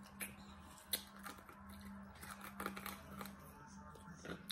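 Close-up eating sounds: chewing of a toasted grilled-cheese burger, with scattered crisp mouth clicks and one sharp click about a second in, over a steady low hum.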